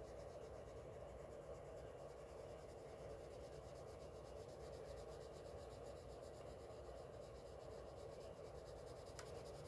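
Faint scratching of a Crayola coloured pencil shading on paper, steady and soft.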